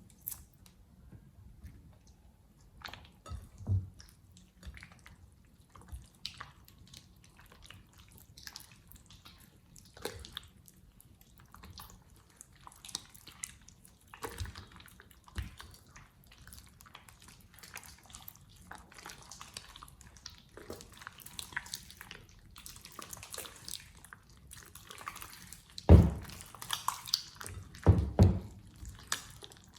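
Slime being handled: many small wet, sticky clicks and drip-like squelches, with a couple of louder knocks near the end.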